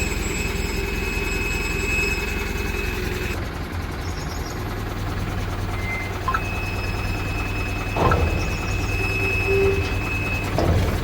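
Heavy diesel engine running steadily, with a thin high whine over it and two short clanks, one about eight seconds in and one near the end.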